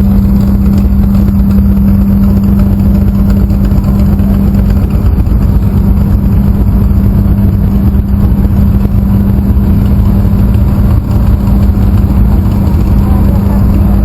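A motor running steadily, with a constant low hum over a loud rumble that does not change.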